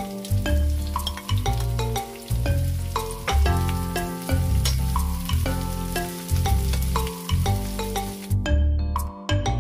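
Sliced onion and carrot sizzling in oil in a frying pan as a wooden spoon stirs them. Background music with a pulsing bass and bell-like notes plays throughout. The sizzle stops near the end.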